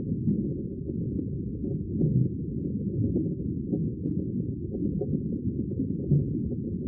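Sea water as a steady, low, muffled rumble with no hiss or splash on top, swelling slightly in loudness now and then.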